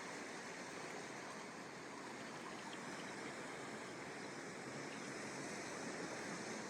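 Ocean surf washing onto a sandy beach as a steady, even rush of breaking waves.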